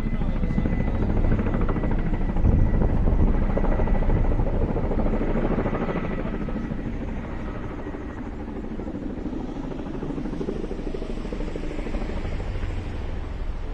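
Firefighting helicopter flying overhead, the rapid chop of its rotor loudest a few seconds in, then fading to a steadier, weaker drone.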